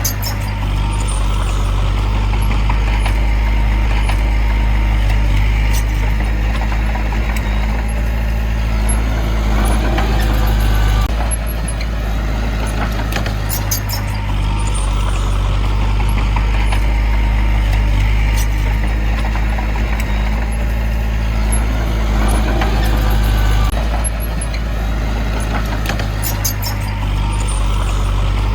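Heavy diesel engine of earthmoving machinery running steadily, with its sound swelling every several seconds as it works.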